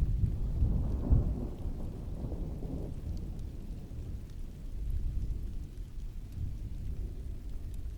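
Distant thunder rolling over steady heavy rain: a low rumble swells in at the start, is loudest about a second in and fades over the next couple of seconds, with a smaller swell of rumble around five seconds in.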